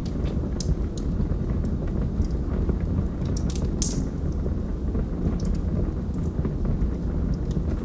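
Wood fire burning logs in a fireplace: a steady low roar of the flames with scattered sharp crackles and pops, a cluster of louder pops near the middle.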